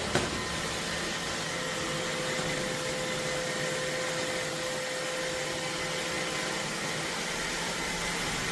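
iRobot Roomba Combo robot vacuum running: a steady whir of its suction motor and brushes with a faint steady hum in it, and a single click right at the start.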